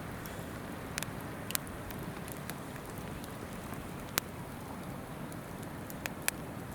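Wood fire crackling, with a handful of sharp pops at irregular intervals, over the steady rush of a babbling river.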